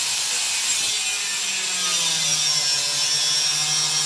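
Electric angle grinder with a cut-off disc cutting through steel: a loud, steady grinding hiss over the motor's hum, which drops a little in pitch about a second and a half in.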